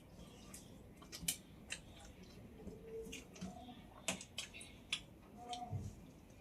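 Person eating close to the microphone: soft mouth clicks and smacks while chewing rice and greens, coming at uneven intervals.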